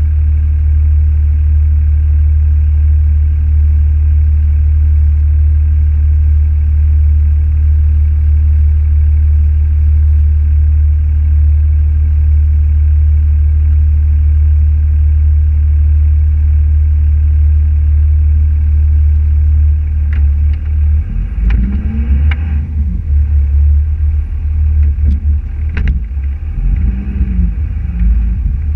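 Car driving, heard as a steady low rumble of engine and road noise. About twenty seconds in the rumble turns uneven, with a few clicks and knocks.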